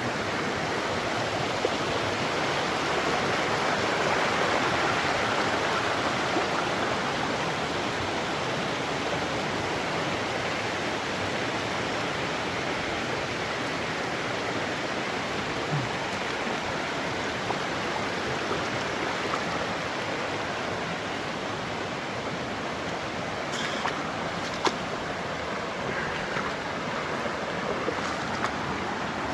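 Steady rush of flowing river water, with a few faint short clicks in the last few seconds.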